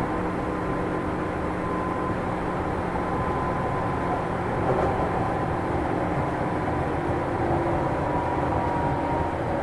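Running sound inside a JR 205 series electric multiple unit motor car on the move: steady rumble of wheels on rail with the hum of its externally fan-cooled traction motors, a few steady tones held throughout.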